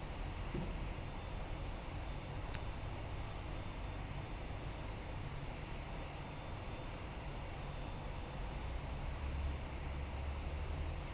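Jet airliner engines heard as a steady, even rumble, strongest in the low end, with a faint click about two and a half seconds in.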